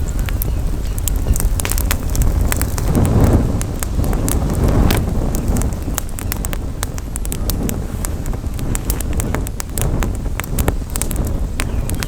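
Campfire crackling, with many irregular sharp pops and snaps over a steady low rumble of wind on the microphone.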